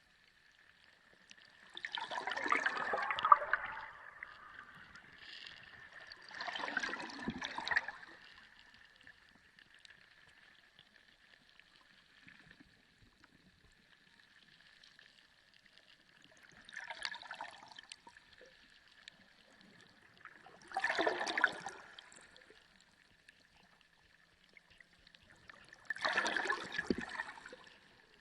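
Underwater sea recording: water surging and gurgling in five separate bursts, each lasting a second or two, over a faint steady high tone.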